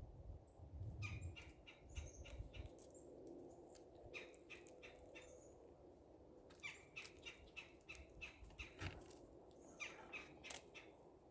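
Birds at a winter feeder calling faintly in short, scratchy notes that come in several quick runs, over a low rumble in the first few seconds.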